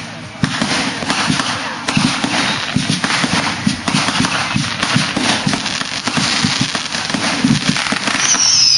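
Fireworks going off in a dense, continuous run of cracks and bangs. Near the end a high whistle falls in pitch.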